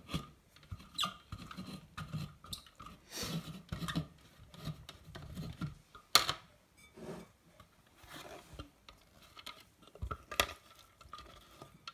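Kitchen handling sounds: irregular taps, clinks and short scrapes of utensils and containers as chopped vegetables are emptied from a food processor container into a glass mixing bowl. The sharpest knock comes about six seconds in.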